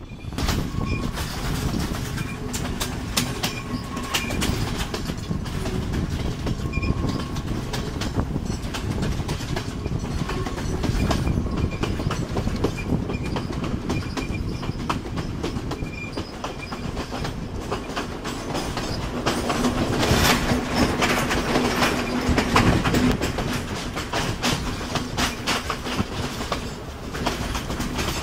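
Romanian-built passenger carriage of a Sri Lankan express train running on the rails, its wheels clattering over the track, heard from an open window. The noise grows louder for a few seconds about two-thirds of the way through.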